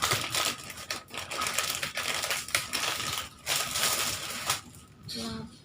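Plastic snack packets and wrapping crinkling and rustling as snacks are handled and packed into gift bags, in irregular bursts with brief pauses.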